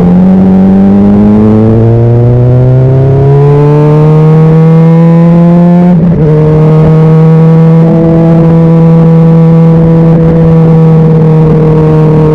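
Honda CBR600RR inline-four engine pulling under throttle, its pitch rising steadily for about six seconds. It breaks briefly, as at a gear change, then holds a steady, slowly falling pitch.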